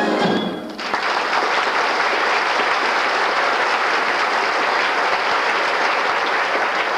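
Theatre audience applauding steadily at the end of a musical number. The orchestra's final chord stops within the first second.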